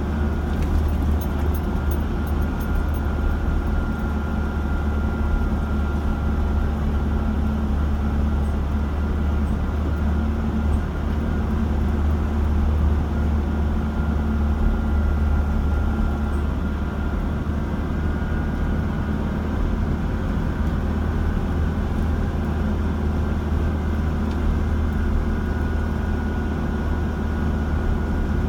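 A car driving at a steady pace: continuous engine and road noise, a low drone with a faint steady whine above it.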